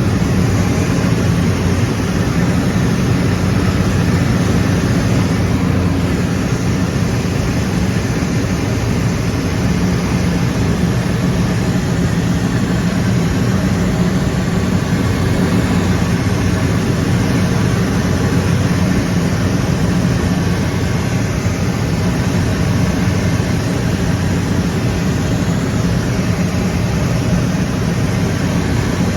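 Steady engine drone and airflow rush of an aircraft in flight, heard from inside the passenger cabin, with a low hum under a broad hiss.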